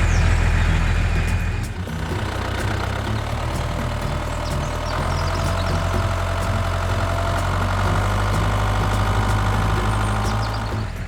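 Motor vehicle engine idling steadily. The sound shifts about two seconds in, and a higher engine tone joins from about five seconds.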